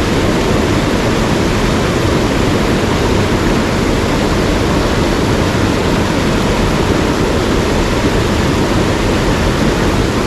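Steady, loud rush of fast-flowing mountain stream water.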